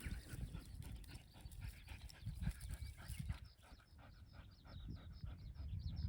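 A dog panting quickly in an even rhythm of short breaths.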